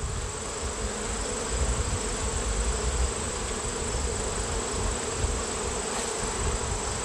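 A colony of honeybees buzzing from an open hive: a dense, steady drone, with a low rumble underneath.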